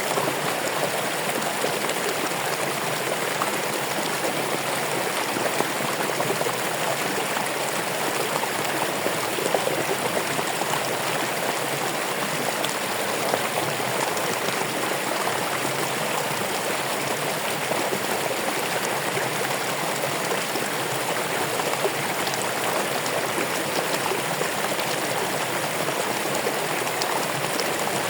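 Running water of a stream flowing over rocks: a steady rushing with small irregular splashes.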